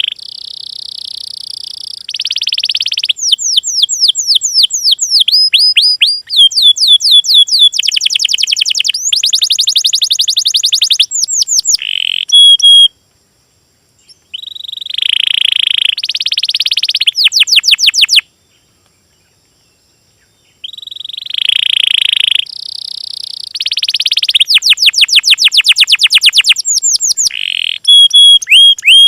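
A songbird singing loudly in fast, varied phrases of rapid trills and quick sweeping notes, broken by two short pauses.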